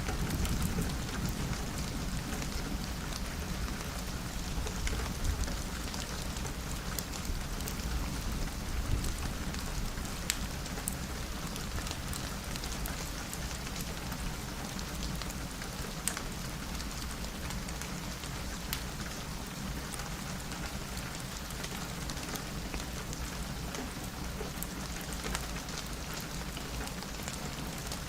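Steady rain pattering on a window, with scattered sharp drop ticks. A low rumble of thunder dies away in the first couple of seconds.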